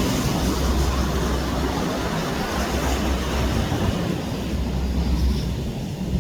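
Wind buffeting the microphone: a low rumble that swells and drops in gusts over a steady rushing noise.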